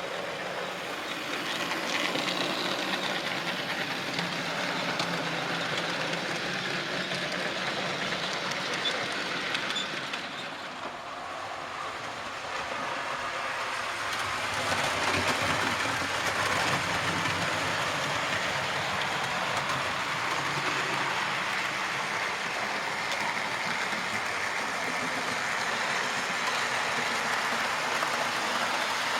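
00 gauge model train running on the layout, its motor and wheels rattling along the track in a steady running noise. The noise dips about ten seconds in and grows louder again from about fifteen seconds in as the train comes closer.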